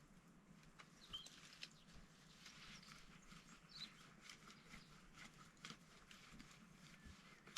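Near silence: faint scattered clicks and ticks, with a couple of faint high chirps about a second in and near the middle.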